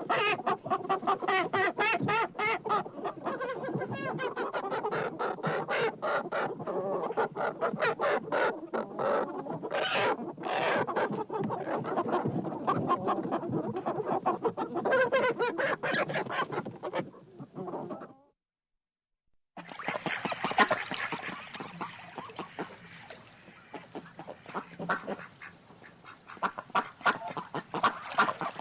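A flock of geese honking, many birds calling over one another. The calling stops abruptly for a moment about two-thirds of the way through, then resumes, sparser.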